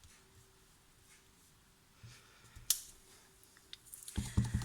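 Faint handling clicks and taps of a stamp and ink pad during card stamping: one sharp click about halfway, then a quick cluster of knocks and clicks near the end.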